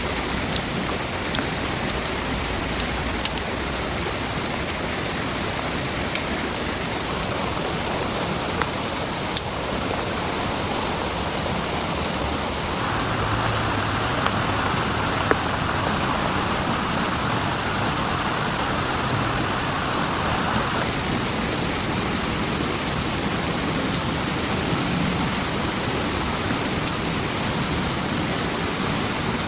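Heavy rain falling steadily, with scattered sharp ticks of single drops. About halfway through it grows louder and brighter for several seconds, then eases back.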